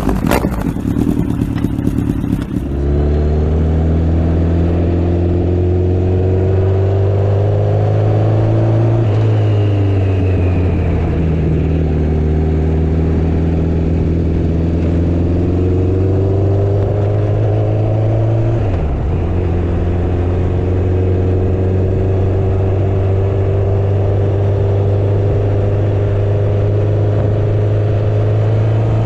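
Motorcycle engine running while riding, its note rising as it pulls and dropping back briefly at gear changes, twice. A broad rushing noise fills the first couple of seconds before the engine note comes in.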